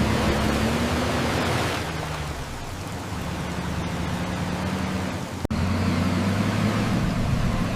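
Large dump truck engine running steadily under a strong hiss. The sound breaks off abruptly about five and a half seconds in and resumes at once with a deeper engine note.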